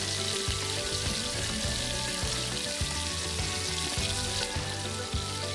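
Thin potato slices deep-frying in oil in a small wok: a steady sizzle, heard over background music.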